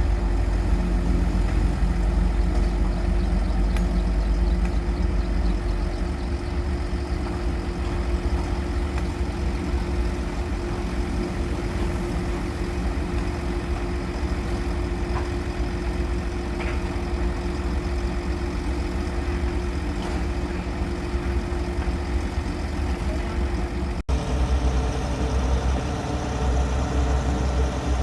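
An engine running steadily at idle with a low rumble and a steady hum; about 24 seconds in the sound cuts off abruptly and resumes at once, slightly changed.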